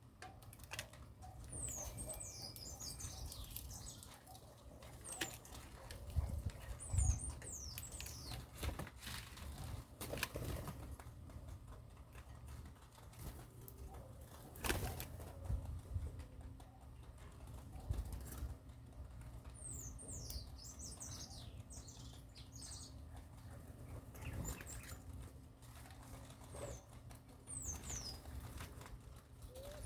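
Small birds giving thin, high, falling chirps in short clusters, four or so times, over scattered clicks and rustles and a steady low rumble.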